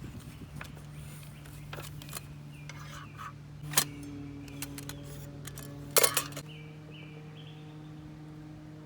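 Light metallic clinks and a louder clatter about four and six seconds in, likely camping cookware or wood-stove parts being handled, over a soft drone of sustained tones.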